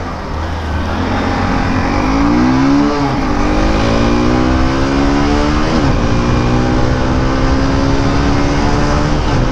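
Hero Hunk 150R ABS motorcycle's single-cylinder engine accelerating hard through the gears: the revs climb in each gear and drop at upshifts about three seconds in, about six seconds in and near the end, each gear pulling up more slowly than the last.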